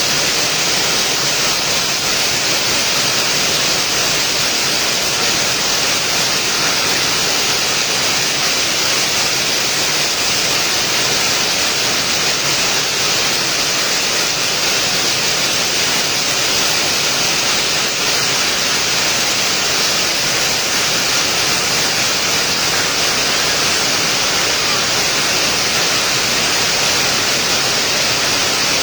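Steady heavy rainfall, a continuous even hiss of rain with no breaks or changes.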